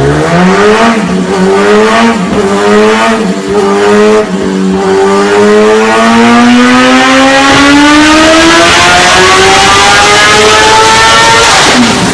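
Motorcycle engine running flat out on a dynamometer. It revs up and shifts up through the gears about four times in the first few seconds, then pulls steadily higher in one gear until the engine note stops abruptly near the end.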